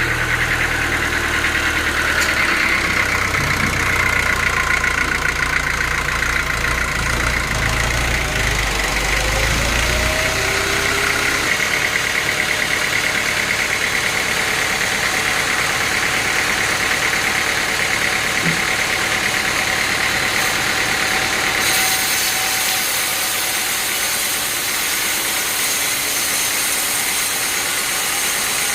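Sawmill machinery running steadily: an engine's deep hum that drops away about a third of the way in, under a steady high whine from the saw. A brighter hiss joins about two-thirds of the way through.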